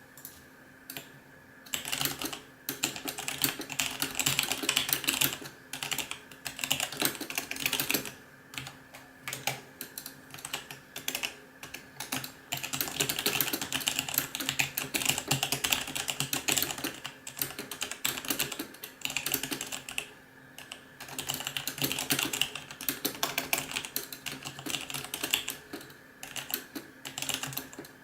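Logitech G910 Orion Spectrum mechanical keyboard with Romer-G switches being typed on fast, in dense runs of key clicks broken by a few short pauses.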